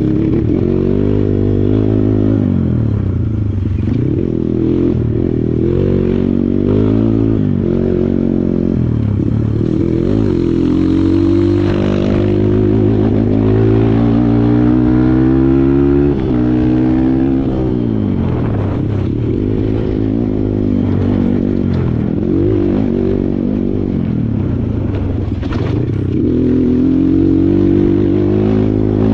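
Kawasaki KLX140 trail bike's single-cylinder four-stroke engine being ridden hard, its pitch rising and falling every second or two as the throttle is opened and closed. The revs are held high for a few seconds midway, then drop suddenly.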